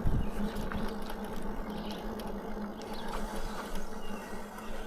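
Steady electric motor whir from the Lectric XP4 e-bike's geared rear hub motor as the bike rolls slowly, with scattered light ticks.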